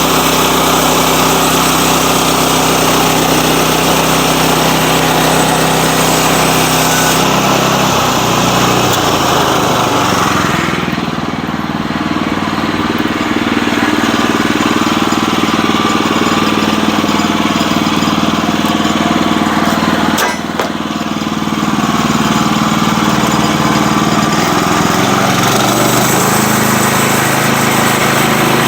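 Sawmill engine running steadily while sawing a log; its note slides lower about eight seconds in and stays changed, with one short click near twenty seconds.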